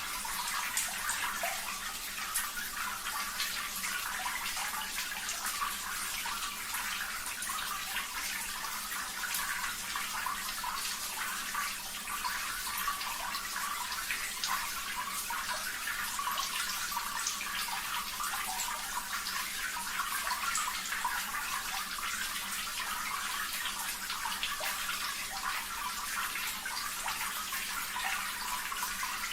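Running water trickling and splashing steadily, a water-sound therapy track.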